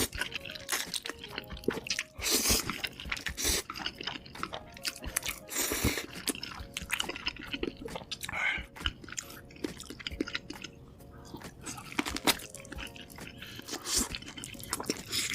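Close-miked eating of fried chicken and spicy instant noodles: irregular crunchy bites and wet chewing, with small smacking clicks throughout.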